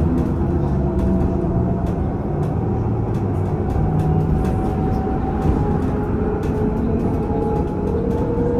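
VMZ Avangard trolleybus heard from on board: its electric traction drive whines in two tones that rise slowly in pitch as it picks up speed, over steady road rumble with scattered small clicks and rattles.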